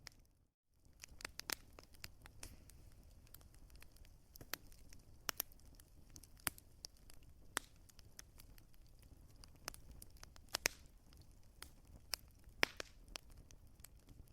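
Wood fire crackling: irregular sharp pops and snaps from the burning wood over a low, steady hiss of flame. The sound cuts out briefly about half a second in.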